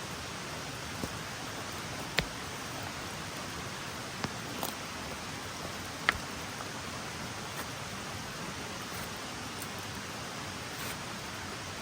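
Steady rain, an even hiss, with a handful of sharp taps; the loudest comes about six seconds in.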